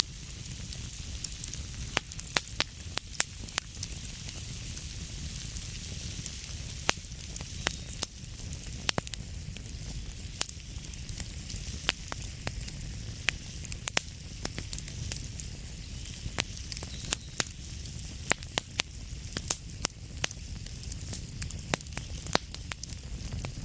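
Wood fire burning in a fireplace: a steady hiss and low rumble with frequent sharp, irregular crackles and pops.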